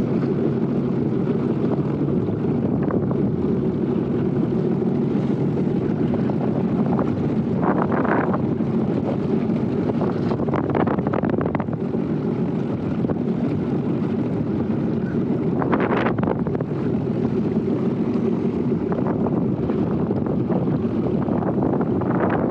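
Sea-Doo personal watercraft engine running steadily underway, with wind on the microphone and a few brief louder hissing swells.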